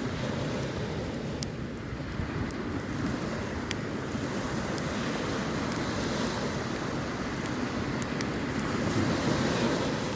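Surf and wind rushing steadily, with a campfire crackling in sharp ticks now and then.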